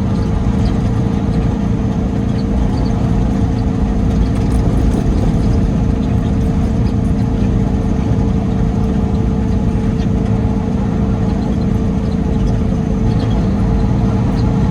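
Peterbilt 389 semi-truck's diesel engine running steadily, heard as a constant low drone inside the cab with a steady hum.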